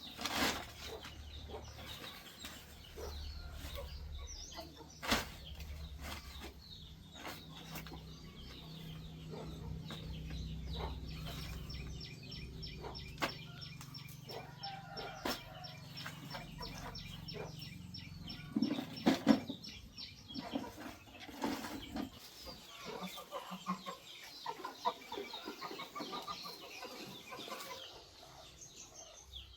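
Chickens clucking, with scattered sharp clicks and knocks and a low steady hum through about the first half.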